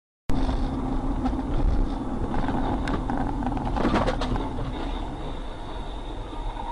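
Vehicle noise starting abruptly after a brief silence: a steady low rumble, with a cluster of sharp knocks about four seconds in.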